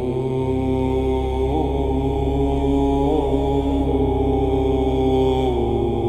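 Nordic-style ambient music: a deep chanting voice holds long notes over a steady low drone, moving to a new pitch a few times.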